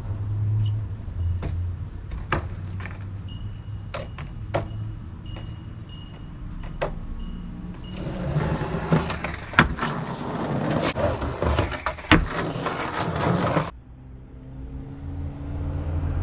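Skateboard riding: a low rumble of wheels rolling on pavement, broken by sharp clacks of the board hitting the ground. About halfway through comes a louder, rougher stretch of rolling with hard clacks, which cuts off suddenly.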